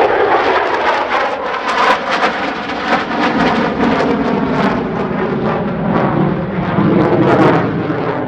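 F-16 fighter jet's engine noise during a pass: a loud, crackling rumble whose pitch slowly shifts as the jet moves.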